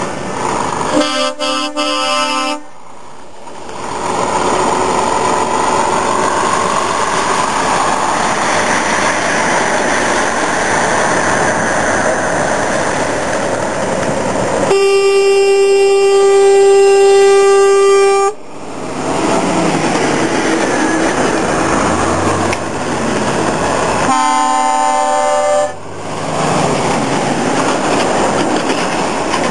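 Truck air horns sounding in three blasts: a short chord about a second in, a long, loud blast of about three and a half seconds in the middle, and another short chord near the end. In between is a steady rushing noise.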